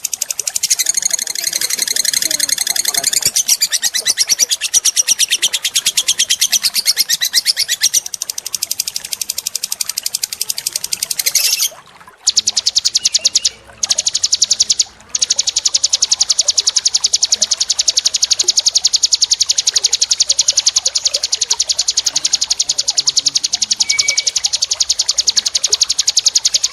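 Small songbird giving a very fast, continuous trill of high notes, with three brief breaks about halfway through.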